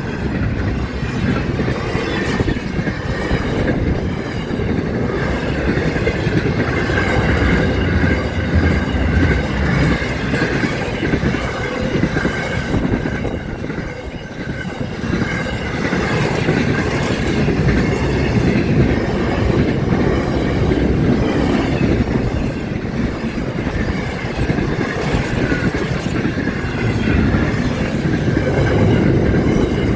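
A train running along the track, a steady continuous noise with a faint wavering high tone through it, easing briefly about halfway through.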